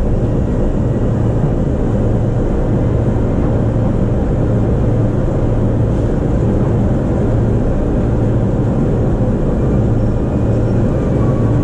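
Steady running noise of an E233 series electric train heard from inside the carriage: an even rumble with a low hum, with no breaks or clacks standing out.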